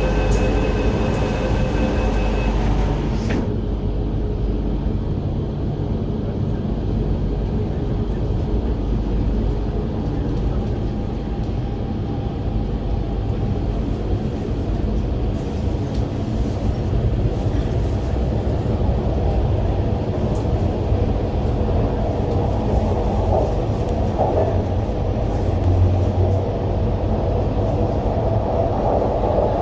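MTR Island Line Q-Train: steady door-closing warning tones, the doors shutting with a sharp knock about three seconds in, then the train pulling away and running with a steady rumble.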